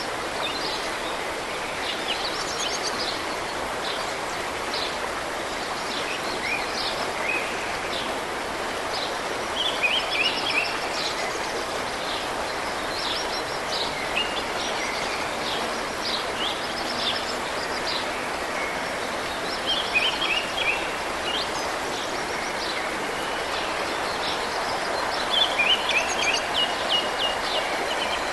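Steady rush of a mountain stream or waterfall, with a songbird singing short chirping, trilled phrases over it every few seconds.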